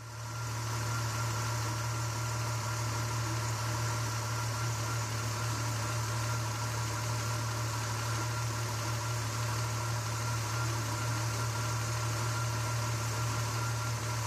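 Car engine idling steadily, with no revving. It starts abruptly as the sound cuts in.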